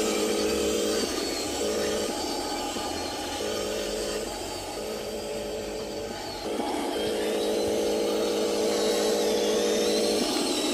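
Remote-control Huina 1501 Scania tractor-truck toy running, with an engine-like drone of pulsing tones and a thin high whine that wavers up and down. It dips in the middle and picks up again about six and a half seconds in.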